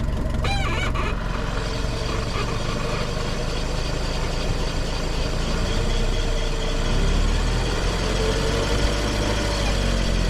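Vehicle engine idling steadily, with a short high-pitched squeal about half a second in.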